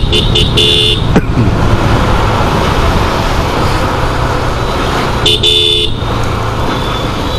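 Vehicle horn beeping several times in quick short honks at the start and once more about five seconds in, over a steady rumble of motorcycle engines and road noise.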